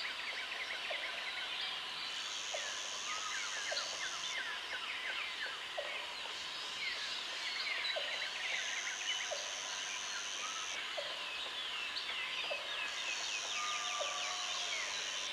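Jungle ambience: many birds calling at once with quick falling chirps. A high insect buzz comes in bouts of about two seconds every four seconds or so. A short low pip repeats about once a second underneath.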